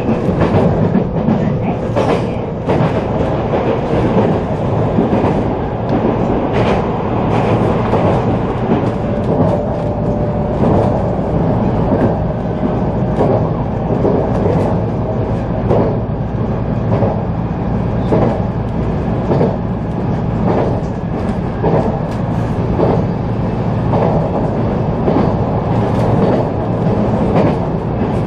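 A JR San'in Line local electric train running at speed, heard from inside the carriage: a steady rumble of wheels on rail, with repeated clicks as the wheels pass over rail joints.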